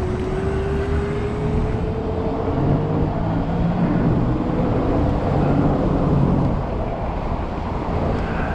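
E-bike motor whining, rising steadily in pitch as the bike accelerates and ending about three seconds in, over a continuous rumble of wind and road noise while riding. A lower hum comes in for a few seconds in the middle.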